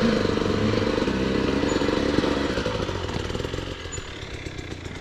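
Dirt bike engine running under throttle, louder for the first couple of seconds, then easing off and quieter toward the end.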